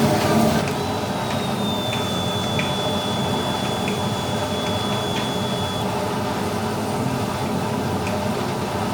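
Steady fan-like background hum, with a faint high whine that dips slightly as it starts about a second in and holds for about five seconds, and a few faint ticks.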